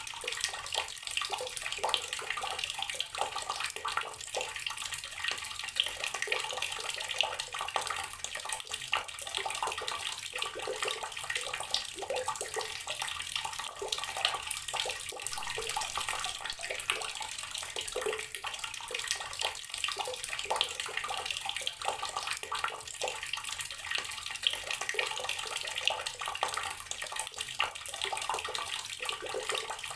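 Water running steadily from a tap, a continuous splashing rush with many small irregular spatters.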